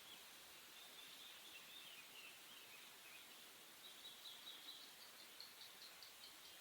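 Faint bird calls over quiet outdoor ambience. There are thin high chirps throughout, then a run of short repeated notes, about four a second, in the second half.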